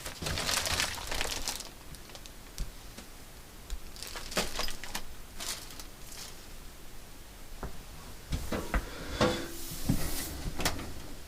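Scattered knocks, clicks and rustling from hands working on a front-loading washing machine, with a few sharper knocks near the end.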